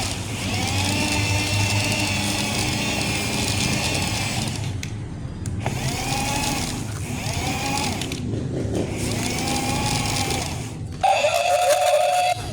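Small electric motors and gearbox of a toy excavator whining under load, the pitch rising and falling in repeated strokes about every one to two seconds, then a louder, steady whine for about a second near the end.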